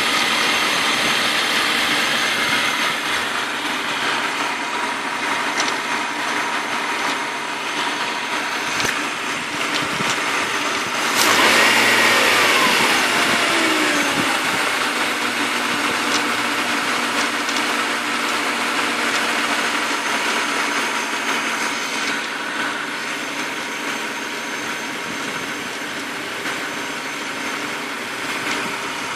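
BMW M52B28 2.8-litre straight-six idling, blipped once about a third of the way through and falling back to idle. Under it is the fault being shown: a rattle from the front of the engine like a loose bolt in aluminium, around the oil filter housing, which the owner has checked with a stethoscope and does not take to be the VANOS.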